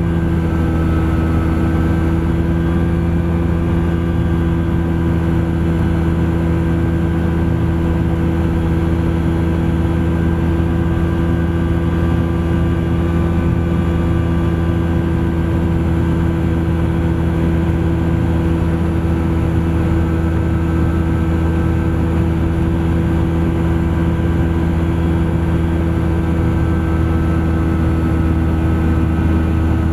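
Thruster ultralight aircraft's engine and propeller droning steadily at a constant speed in level flight.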